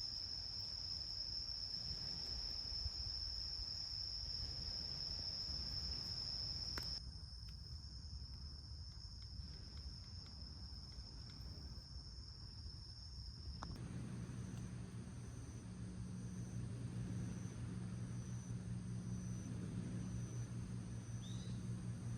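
Crickets chirping in a continuous high trill at night. The sound changes abruptly about 7 s and again about 14 s in; from then on the insect trill comes in short on-off runs over a low steady hum.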